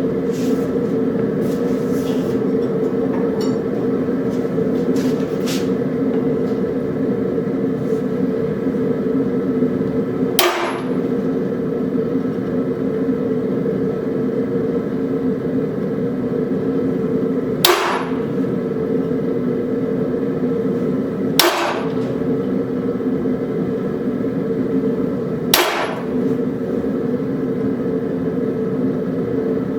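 Hammer striking a punch on a railroad spike to put in reference marks for a face: a few light taps in the first few seconds, then four sharp metal-on-metal strikes several seconds apart. A steady hum runs underneath.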